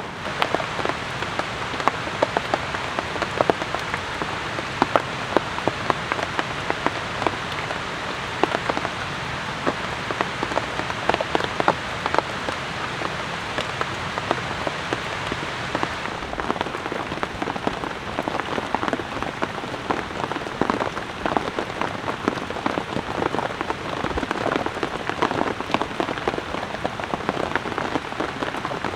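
Steady rain falling, with many separate drops striking a surface close by as sharp ticks over a constant hiss.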